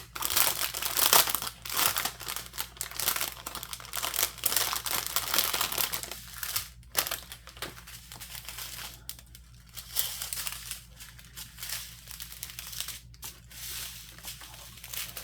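Small plastic bags of round diamond painting drills crinkling as they are handled, a dense crackle that is louder for the first six seconds or so and lighter after that.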